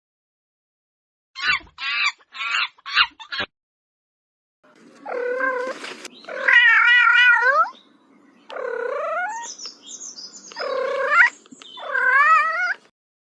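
A domestic cat meowing repeatedly: about five long, drawn-out meows that bend up and down in pitch. They are preceded by a few short clipped calls a couple of seconds in.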